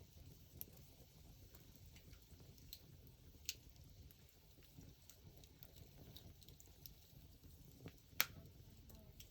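Wood fire crackling: scattered sharp pops and clicks over a quiet low background, the loudest pop about eight seconds in.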